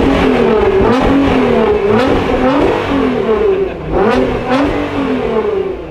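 Nissan GT-R R35's twin-turbo V6 with a straight-piped Armytrix exhaust, free-revved while standing still: the revs rise and fall in repeated blips about once a second, the tachometer swinging between about 3,000 and 4,000 rpm.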